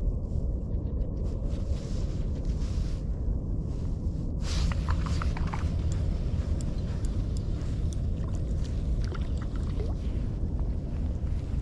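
Wind buffeting the microphone: a steady low rumble, with a few faint clicks about halfway through.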